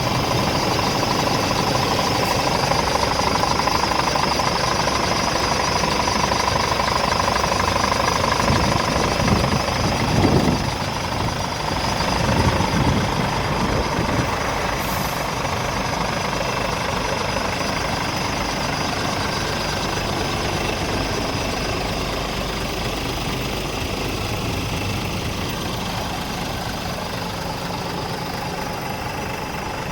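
Scania R410 tractor unit's six-cylinder diesel idling steadily, rising and falling in pitch a couple of times between about nine and thirteen seconds in as it is revved. A short hiss about fifteen seconds in.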